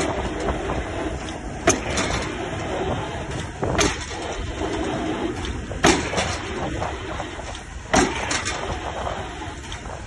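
Excavator drop hammer striking a square concrete pile, four heavy clanks about two seconds apart, over the steady low running of the excavator's diesel engine.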